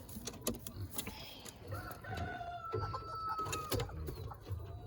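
A rooster crowing once, a long held call of about two seconds that sags slightly at the end, with scattered clicks and knocks around it.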